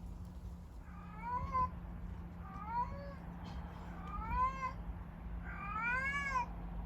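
A stray kitten meowing four times, about a second apart, each call rising then falling in pitch, the last one the longest, over a steady low hum.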